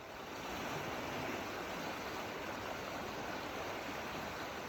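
Steady rushing water sound, an even hiss and rumble, that swells in at the start and then holds level.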